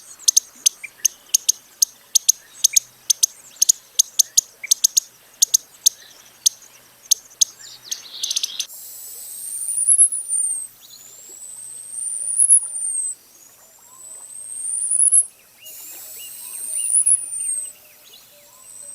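A bird gives rapid, sharp, very high chip notes for the first half. After an abrupt change, there are four long, thin, very high whistles that rise and then fall, about every couple of seconds: the song of a male Costa's hummingbird.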